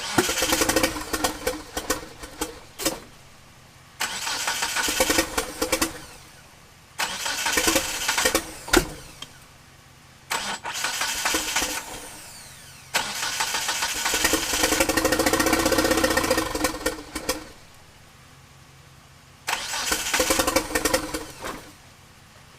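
1997 Eclipse GSX's turbocharged 4G63 four-cylinder being cranked by the starter in six separate attempts, each a few seconds long, the fifth the longest, without the engine catching and running. It is a crank-no-start, which the owner puts down to a timing problem at the cam angle sensor.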